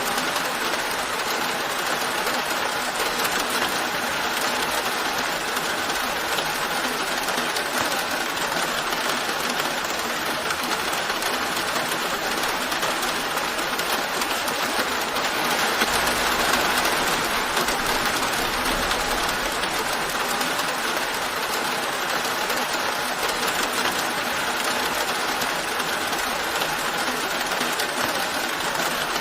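Steady rain falling in an even hiss. A low rumble swells briefly a little past the middle.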